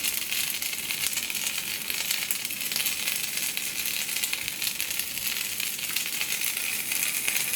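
Meat sizzling on an electric hot plate: a steady high hiss thick with fine crackles.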